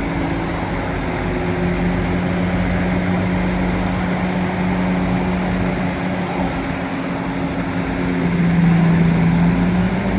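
Heavy machine's engine running steadily at a constant pitch, getting louder for a moment near the end.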